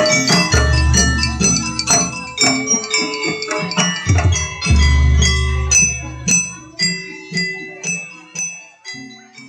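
Gamelan music for a jaranan dance: bright, ringing struck metallophone and bell-like notes over two long, deep low notes. In the second half the strikes thin out into separate notes that fade away near the end.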